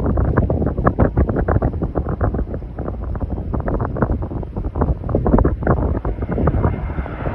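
Strong wind buffeting the microphone in uneven, rumbling gusts.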